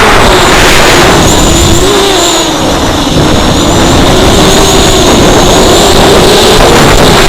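Brushless motors and propellers of a ZMR250 racing quadcopter in flight: a loud motor whine whose pitch wavers up and down with the throttle, over a heavy rushing noise. The whine dips briefly about three seconds in.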